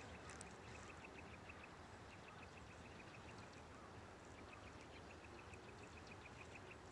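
Near silence: a faint, even background hiss with a bird giving rapid, repeated high chirps, about six a second, in three short runs.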